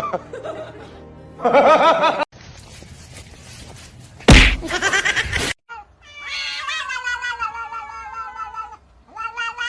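A cat meowing in short wavering calls, mixed with music and a loud, harsh noisy burst about four seconds in.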